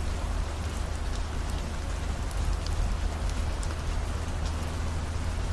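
Steady rain with scattered faint drop ticks over a low, even car-interior road drone.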